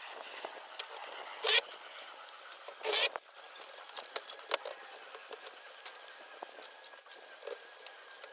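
Sped-up work sounds of a gutter installation: a busy run of quick clicks and knocks, with two short loud bursts of noise about a second and a half in and again about three seconds in.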